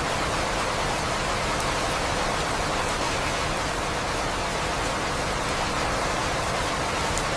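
Steady rain falling, an even, unbroken hiss with a few faint drop ticks and no thunder.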